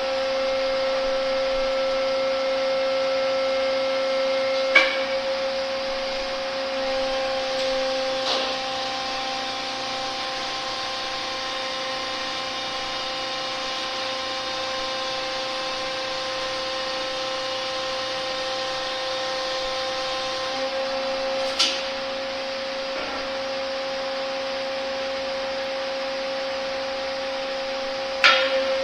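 Hydraulic pump running with a steady whine while a repaired cylinder is cycled under pressure for a leak test. The pitch shifts slightly twice. Four sharp clicks or knocks come through it, the last near the end.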